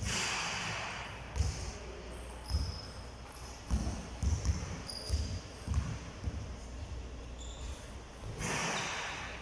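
Basketballs bouncing on a hard gym floor in irregular thuds, with short high squeaks between them.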